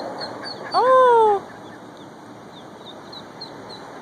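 Ducklings peeping in short, high, downward-slurred chirps, a few a second, over steady outdoor background noise. A person's loud exclamation, falling in pitch, cuts in about a second in.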